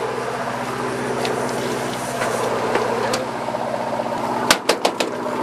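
Steady hum of a fishing boat's engine with wash and wind noise. About four and a half seconds in, a quick series of about four sharp knocks.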